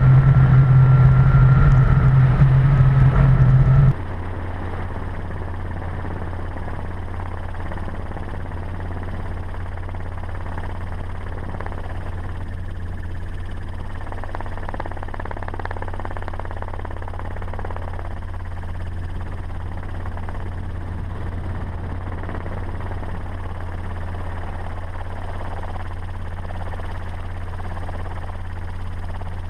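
A vehicle running steadily, a constant low drone. About four seconds in it drops abruptly from a louder run with a strong low tone and a higher whine to a quieter, even drone that holds to the end.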